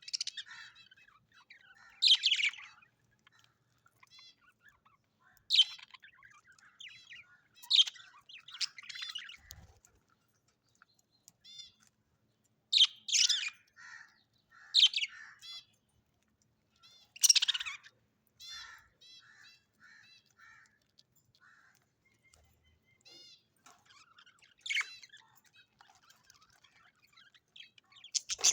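Parrots calling: short loud calls every few seconds, with quieter chattering notes in between.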